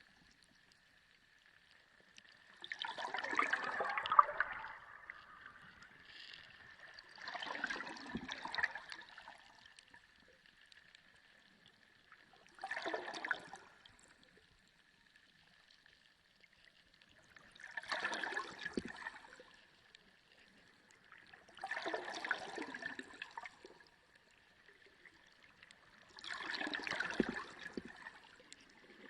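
Sea water recorded underwater: six surges of rushing water, each a second or two long, about every four to five seconds, over a faint steady high hum.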